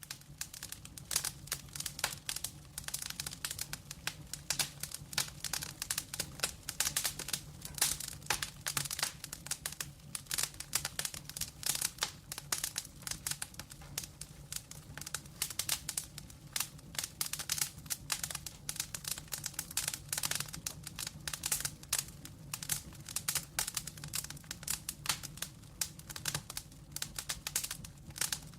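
Wood fire in a fireplace, burning logs crackling and popping in a dense, irregular run of sharp snaps, over a low steady hum.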